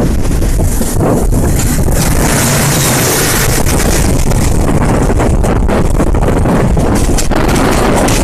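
Steady rush of wind on the microphone over the rumble of a moving passenger train, recorded at speed.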